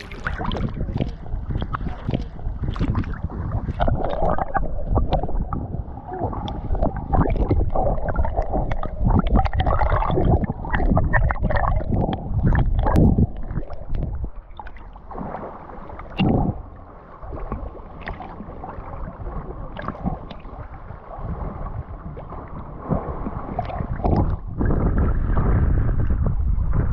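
Sea water sloshing and splashing close to the microphone, in uneven surges, muffled with little high sound.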